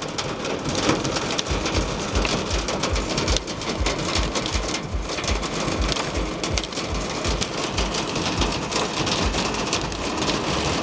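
Hailstones drumming on the roof and body of a vehicle, heard from inside the cabin: a dense, continuous clatter of many small impacts, with deeper thumps mixed in from about a second and a half in.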